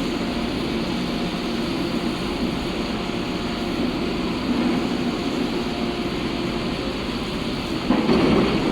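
Foundation drilling rig running: a steady mechanical drone, with a louder, rougher burst starting near the end.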